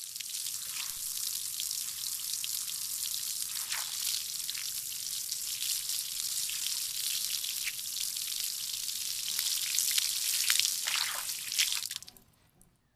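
A steady sizzling, crackling hiss with scattered louder pops, starting abruptly and stopping about twelve seconds in.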